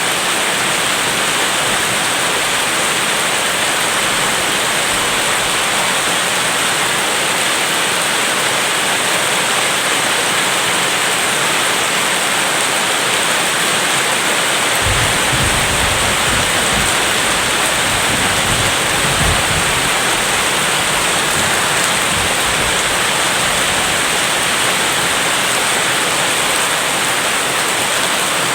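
Steady rain falling, a continuous even hiss. About halfway through, a low rumble of thunder comes in underneath the rain and carries on.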